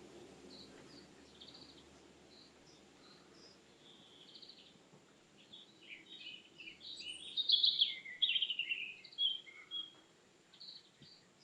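Forest birds calling: short high chirps repeat throughout, and in the middle a bird sings a quick, louder run of varied notes for about three seconds.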